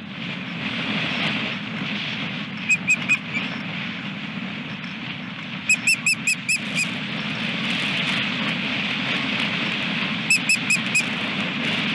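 Osprey calling in three short runs of quick, high chirps, three to five notes each, over a steady rushing wind noise.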